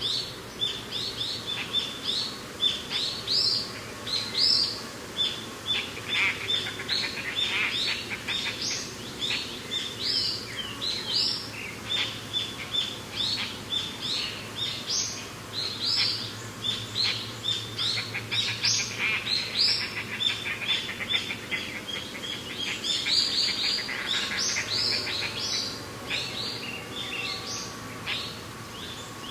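A chorus of songbirds chirping and calling, many short rapid notes overlapping, denser around the middle and near the end, over a faint steady background rush.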